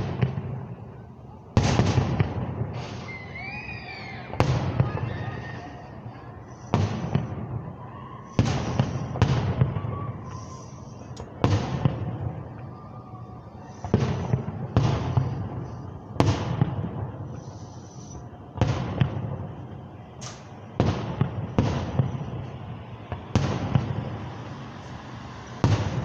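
Aerial firework shells bursting one after another at irregular intervals of one to two and a half seconds, each sharp bang followed by a rolling echo. A brief whistling glide comes about three seconds in.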